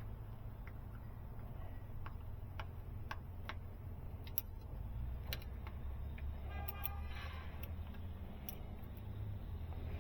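Scattered light metallic clicks and ticks from hand tools working the valve-train adjusting screws on a diesel engine's rocker arms, over a low steady hum.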